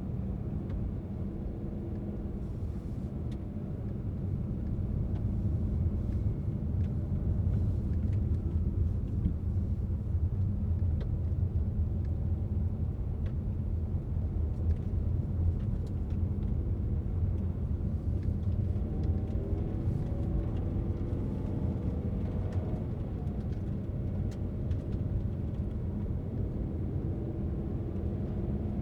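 Car driving on the road: steady low engine rumble and tyre noise, growing a little louder about five seconds in, with the engine hum shifting in pitch past the middle and scattered faint ticks.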